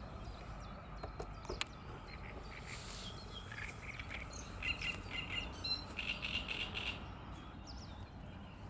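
Small birds chirping and singing in short runs of high notes, busiest around five seconds in and again from six to seven seconds, over a faint steady low background noise.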